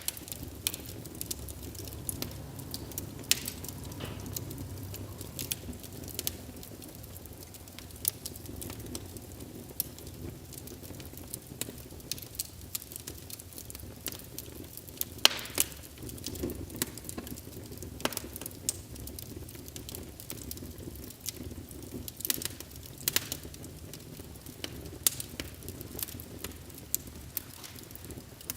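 Wood fire burning in a fireplace, crackling and popping at irregular moments over a low steady rumble of the flames, with a louder pop about halfway through.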